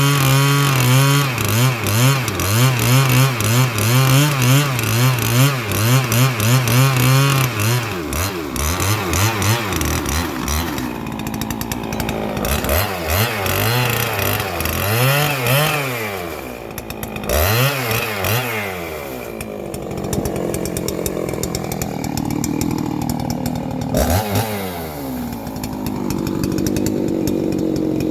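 Ported Husqvarna 3120 XP two-stroke chainsaw cutting through a large log. It holds high revs with a wavering note for the first several seconds, then its revs rise and fall repeatedly, the rev limiter cutting in while the saw is only at about half throttle. It settles to a steadier note near the end.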